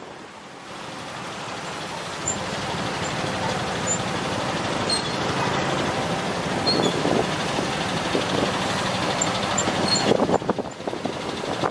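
Motorbike riding through city traffic: engine and road noise that grows louder over the first few seconds, then runs steady.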